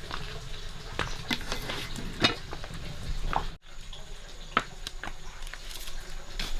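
Kitchen work sounds: scattered light clicks and knocks of utensils and dishes over a steady low hum, with a brief break about halfway through.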